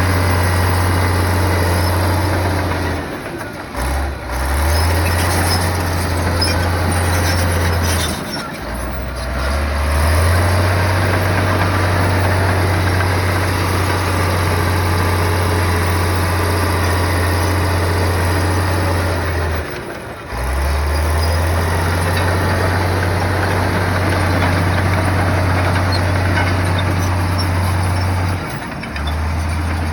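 Komatsu bulldozer's diesel engine running, a deep steady drone that dips and shifts in pitch briefly four times as the load on it changes.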